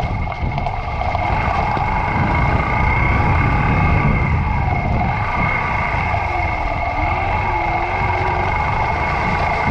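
Yamaha YBR125's single-cylinder four-stroke engine running steadily while the motorcycle is ridden, with a continuous low rumble underneath.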